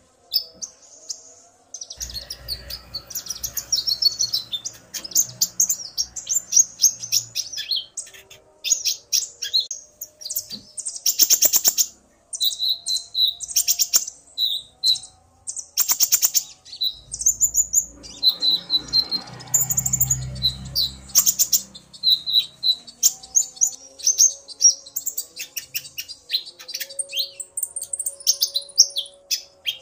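Male and female kolibri ninja (konin) sunbirds calling back and forth: fast, high-pitched chirps and twittering trills with a few sharp louder notes. The male is singing hard, set off by the female's calls.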